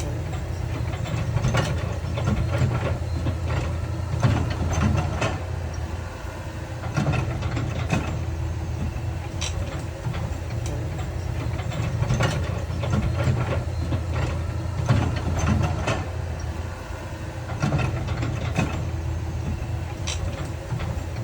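Heavy diesel earthmoving machinery running with a steady low drone, with frequent irregular clanks and knocks from rock and steel working.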